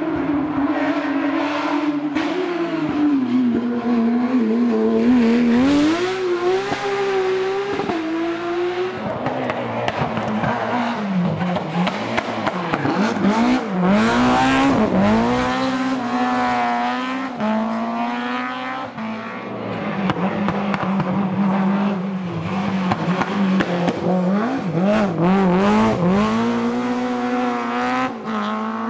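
Rally car engines running hard, the pitch climbing through the gears and dropping sharply on downshifts and braking, again and again through corners.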